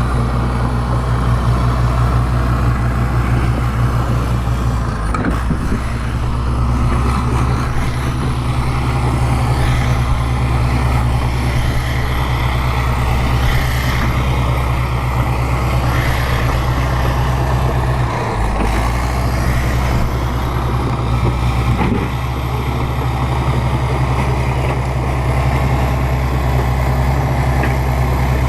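Bulldozer's diesel engine running steadily with a deep drone, the engine note briefly dipping and shifting about eighteen seconds in.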